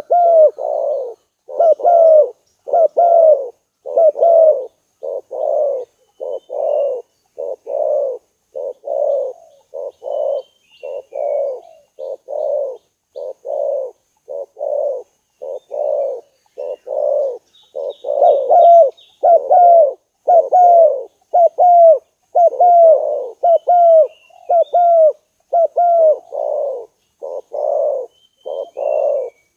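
Spotted dove cooing in a long unbroken run of repeated notes, about two a second.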